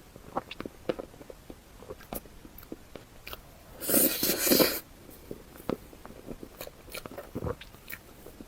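Close-miked eating: small wet mouth clicks of chewing, with one loud crunchy bite lasting about a second, roughly four seconds in.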